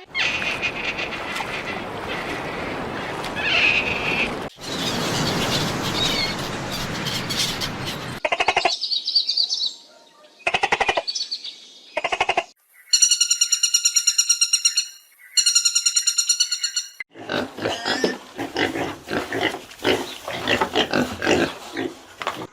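A run of different animal calls, one after another: two long, noisy stretches, a few short separate calls, two blocks of high, clear tones, then a long stretch of rapid pulsed calls.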